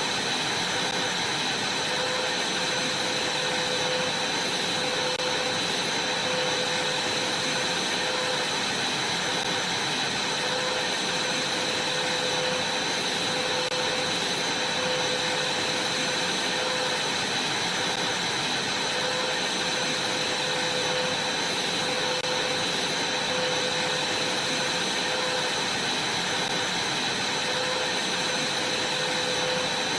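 Vacuum cleaner running steadily: an even rushing noise with a constant high whine and a lower hum that never change.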